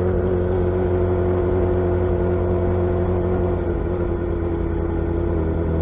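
Suzuki Hayabusa's inline-four engine and exhaust running at a steady cruising speed, the pitch holding nearly level with a slight drop about four seconds in.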